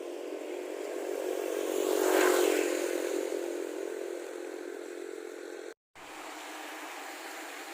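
A motor vehicle passes close by, growing loud about two seconds in and then fading, over a steady engine hum. The sound drops out briefly near the end.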